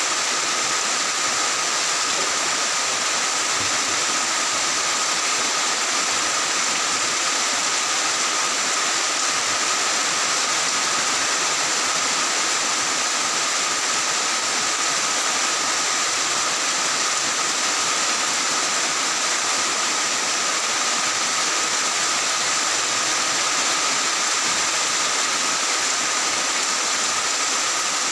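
Heavy rain falling steadily on tiled roofs, an even, unbroken hiss.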